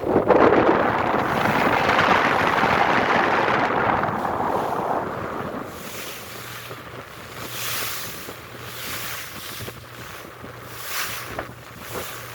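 Wind on the microphone and water rushing past a moving ferry, loud for the first five seconds or so. It then dies down to a steady low engine hum with gusts of hiss.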